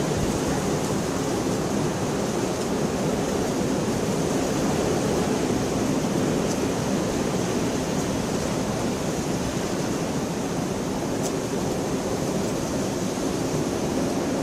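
Steady rain falling, an even hiss with a few faint sharp drop ticks, one of them a little after the middle.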